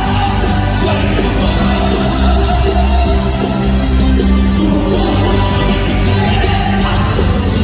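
Live praise-and-worship music: a loud band with a steady drum beat and voices singing.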